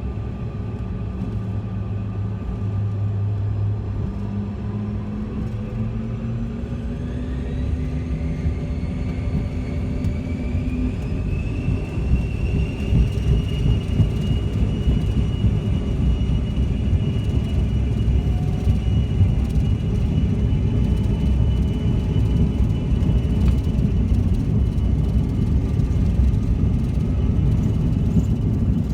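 Jet airliner's engines spooling up to takeoff power, heard from inside the cabin: a whine rising in pitch for several seconds and then holding steady, with the low rumble of the takeoff roll growing louder beneath it.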